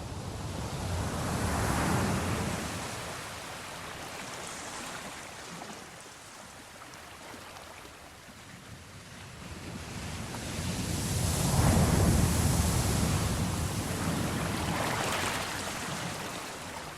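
Sea waves washing in and out, swelling twice (about two seconds in and again more strongly near the middle) and falling back between.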